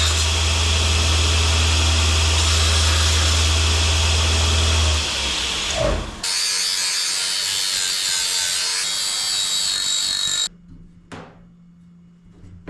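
Power tool cutting sheet metal for a patch panel, in two runs. The first ends about five seconds in with a falling tone as it slows; the second starts about a second later and cuts off abruptly near the end, followed by a single click.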